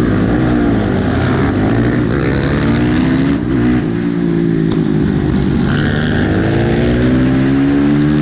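Supermotard motorcycle engine at hard throttle, its pitch climbing and falling back several times as it accelerates and shifts through the gears.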